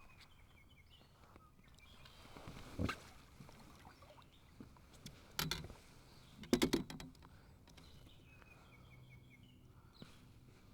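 A few knocks and a short clatter of fishing gear handled in a kayak, with faint bird chirps in between.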